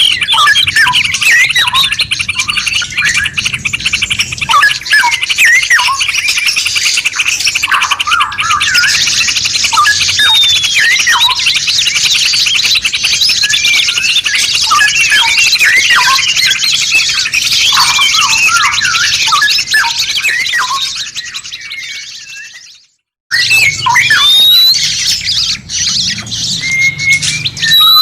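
Recorded songbirds singing a dense, rapid chatter of high chirps and trills. About 21 seconds in it fades out to a moment of silence, then a new stretch of bird song starts.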